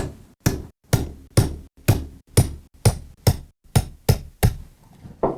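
Hammer striking a steel punch in steady blows, about two a second and around a dozen in all, driving out the roll pins that hold a fire nozzle's bail handle to its trunnion.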